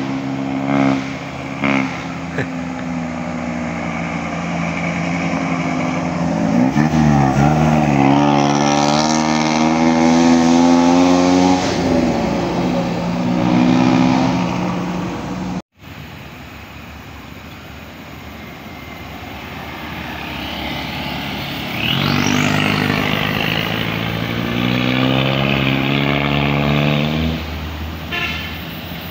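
Horns of heavy vehicles passing close by, each blown in a long held blast over the noise of their engines. There are two passes with a sudden cut between them, and the pitch of the first blast bends as the vehicle goes by.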